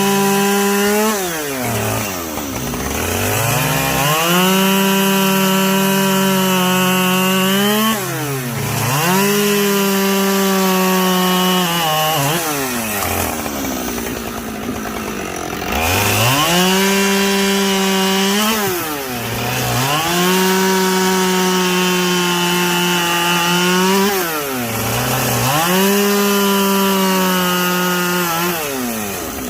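Two-stroke chainsaw bucking firewood logs, held at high revs through about six cuts. Between cuts the revs fall back briefly and then rise again.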